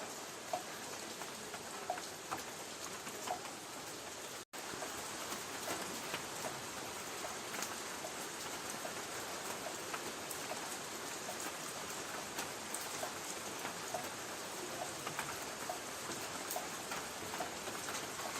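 Light rain on a tin roof: a steady hiss with scattered individual drops ticking and pinging on the metal. The sound cuts out for an instant about four and a half seconds in.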